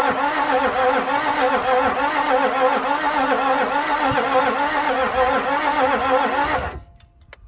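Starter motor cranking a Toyota 1HD-FTE straight-six turbodiesel, a steady whine that wobbles with each compression stroke. The engine does not fire, and the cranking cuts off suddenly near the end.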